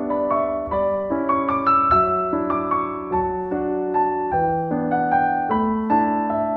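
Piano music: a melody of single notes, a couple a second, over held lower notes that change every second or so.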